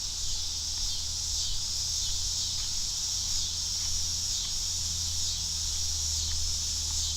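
Steady chorus of insects, crickets or cicadas, a high shrill buzz that keeps going without a break, over a low steady hum.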